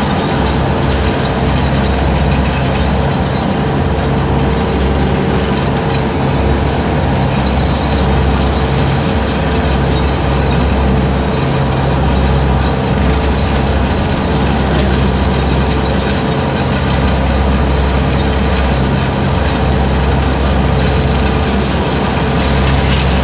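Skid steer running under load with its 72-inch hydraulic brush cutter spinning while it mows through long grass and weeds. The sound is loud and steady, with a high whine over the engine.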